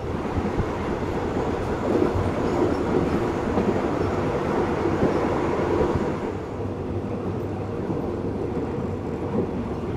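Steady rumble and rush of a moving passenger train, heard from inside the carriage as it runs along the rails. It swells for a few seconds, then eases slightly about six seconds in.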